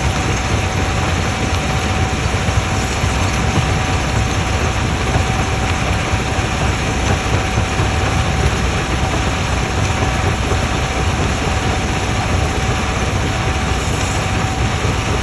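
Quarry jaw crusher running: a steady, heavy low rumble of machinery with a constant high-pitched whine over it.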